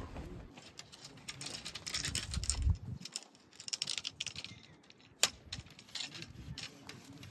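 Irregular clicking and clattering of small hard objects being handled, with one sharp click about five seconds in.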